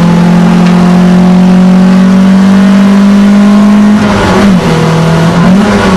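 Alfa Romeo GTV engine heard from inside the cabin, pulling hard on track with revs climbing slowly. About four seconds in the revs drop briefly, then climb again near the end.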